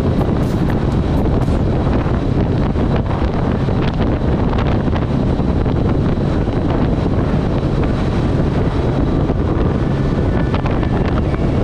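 Heavy wind rush on an action camera's microphone over the steady running of a Kawasaki Z1000SX's inline-four engine.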